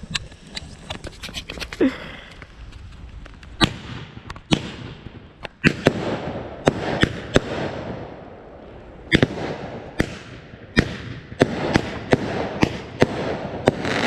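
Consumer firework cake firing a volley. A quick patter of small pops comes first, then louder shots about one or two a second, with a crackling hiss filling the gaps between them.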